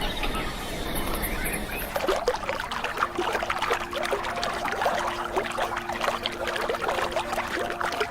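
Splashing, trickling water, starting about two seconds in. A steady low drone runs under it from about three seconds on.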